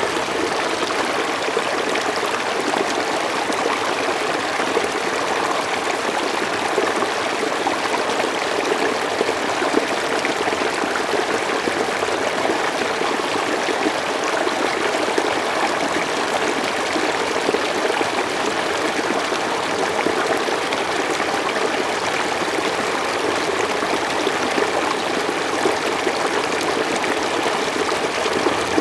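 Mountain stream flowing smoothly, a steady rush of water with no pauses.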